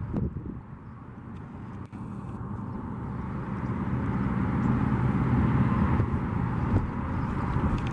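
Boat motor running steadily, a low hum that grows louder over the first few seconds and then holds.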